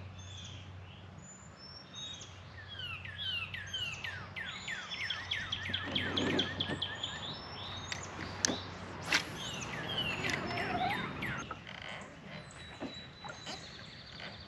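Songbirds singing: runs of quick, falling whistled notes, several in a row, with a few sharp clicks about halfway through.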